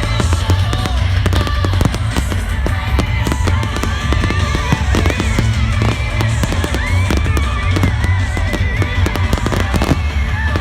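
Fireworks bursting and crackling in quick succession over loud music with a heavy bass.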